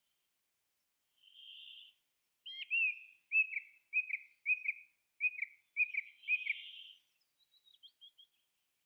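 A bird calling: a harsh buzzy note, then a run of short, sharp downslurred chirps about two a second, a second buzzy note near the end of the run, and a few faint high ticks after it.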